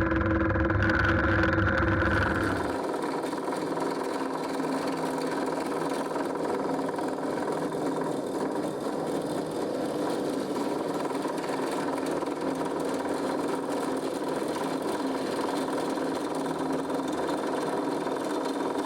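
Drill press motor running steadily, a constant machine hum with a deeper low drone in the first couple of seconds that drops away.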